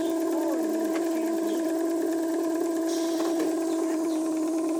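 Small steam mill engine and its gas-fired horizontal boiler running, giving off a steady, even hum.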